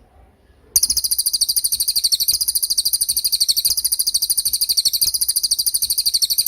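A small songbird's high, rapid trill of evenly repeated notes, about ten a second, starting abruptly about a second in and holding steady for around six seconds.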